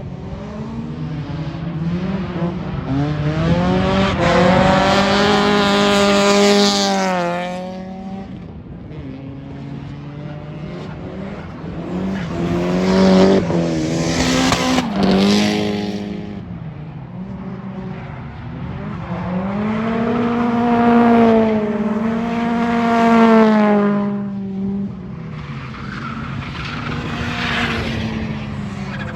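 Drift cars on track, engines revving up and down through their slides with tyres squealing. It comes in three loud swells as cars go by.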